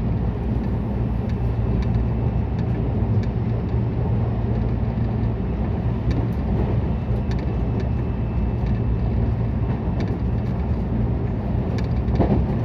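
JR West 223 series electric train running, heard from inside: a steady low rumble with faint scattered clicks.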